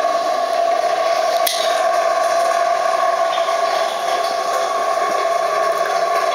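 Heavy downpour with hail: a loud, steady rush of rain and hailstones, with one sharp tick about one and a half seconds in.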